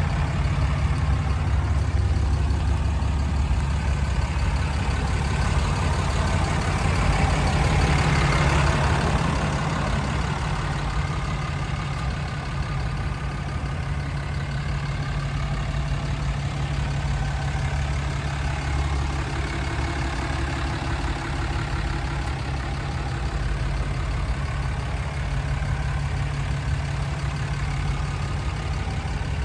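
6.7-litre Cummins turbo diesel engine running steadily, with a swell of louder, wider noise about seven seconds in that fades by ten seconds.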